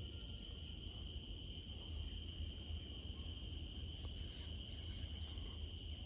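Insects trilling steadily in several high pitches at once, over a low rumble.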